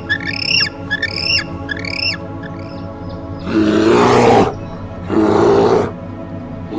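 Animal calls over background music: a quick run of short, high squeaky calls, then two loud, rasping roars about a second long each.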